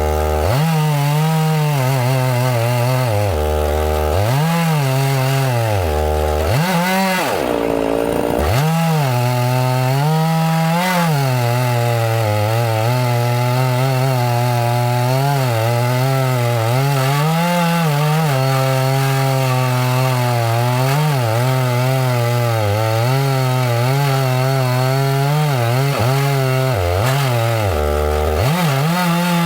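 Petrol chainsaw running at high revs while cutting through pine, its engine pitch sagging and recovering again and again as the chain bites into the wood. About seven seconds in the engine drops briefly to a low idle, then revs back up.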